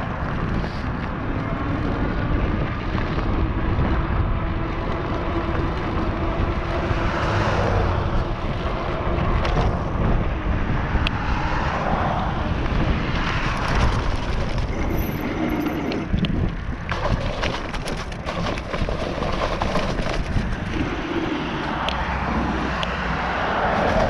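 Riding noise on an NCM Aspen e-bike: wind buffeting the action camera's microphone over the steady rumble of the tyres on the ground, with scattered small clicks and rattles.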